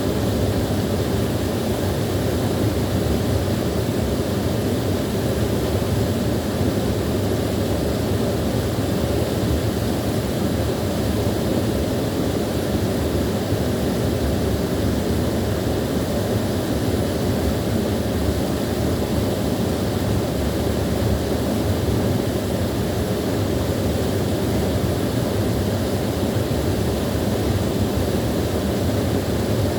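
Small waterfall pouring steadily: a constant, deep rushing of falling water.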